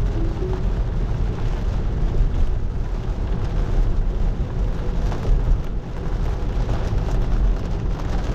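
Heavy rain on a Tesla Model 3, heard from inside the cabin, over a steady low rumble of tyres on the wet road.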